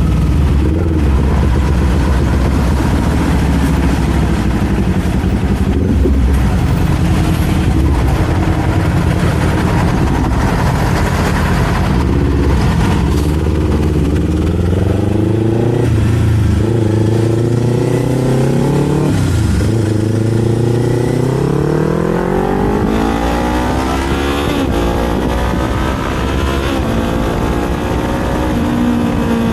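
Kawasaki Z400 parallel-twin engine and exhaust under way. It runs at a steady low note at first, then the revs rise and drop back sharply twice, as at gear changes, before a long steady climb in pitch over the last several seconds.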